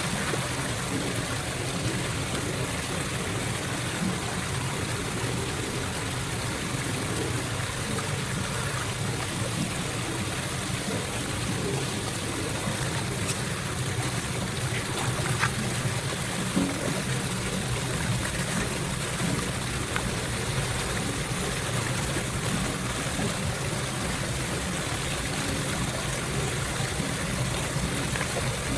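Floodwater running steadily, a constant rush of flowing water, with a couple of small knocks about halfway through.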